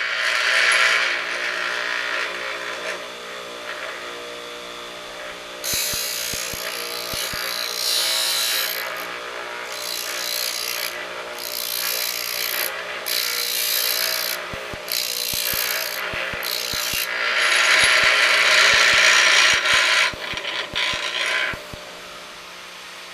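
Pedestal grinder running with a steady motor hum as a high-speed steel lathe threading tool is ground against the wheel in a fixture. The grinding hiss starts and stops with each pass as the tool is slid back and forth, and it is heaviest near the end. It stops shortly before the end while the motor keeps running.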